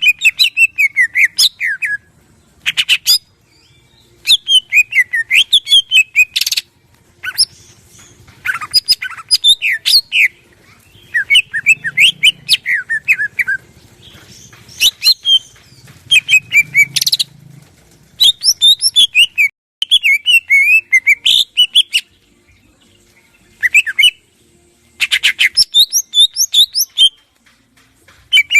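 Cucak ijo (greater green leafbird) singing loudly in rapid phrases of quick, sweeping whistled and chattering notes. Each phrase lasts one to three seconds, with short pauses between them.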